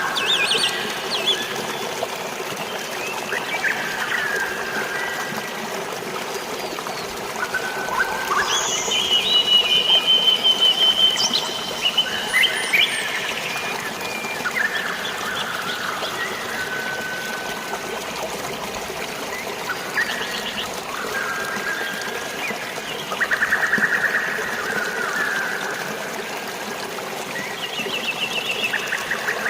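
Steady rush of flowing water with many birds calling over it: short chirps, trills and whistles, one after another.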